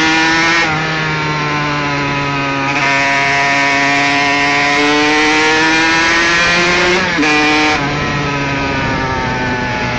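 Honda CR125's two-stroke single-cylinder engine running hard under way, loud and continuous. Its pitch shifts suddenly a little under a second in, then jumps up briefly about seven seconds in before dropping back.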